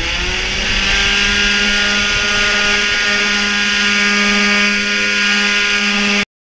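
Yamaha TZR's two-stroke engine running at high, steady revs, its pitch rising a little in the first half second, then cut off suddenly near the end.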